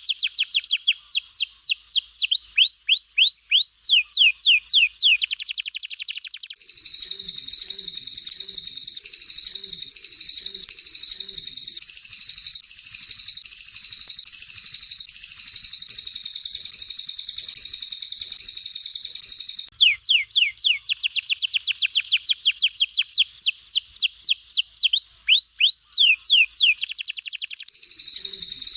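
Recorded songs of a canary and a cililin taking turns: a rapid series of high whistled notes, each falling sharply in pitch, switches about six seconds in to a long, dense, buzzy high warble, then back to the fast falling whistles, and to the warble again near the end. These are the rapid, harsh 'shot' phrases used as tutor material for songbirds.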